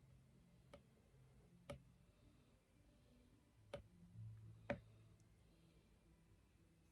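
Faint, sharp clicks from drawing, four of them, in two pairs about a second apart, with a brief low hum in the middle; otherwise a quiet room.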